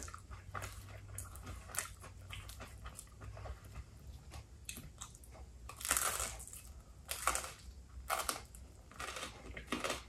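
A person biting and chewing a crisp pizza crust up close, with a loud crunchy bite about six seconds in and several smaller crunches after it.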